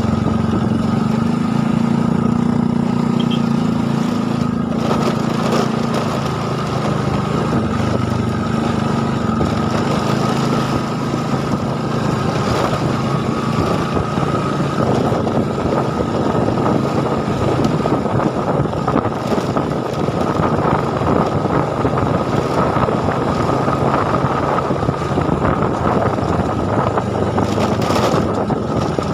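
A small engine running steadily, its pitch shifting a little in the first few seconds, over a continuous rushing hiss.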